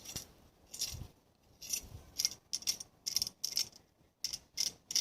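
Small metal objects jingling or clicking: a run of about a dozen short, high clinks, uneven in spacing and coming faster in the second half.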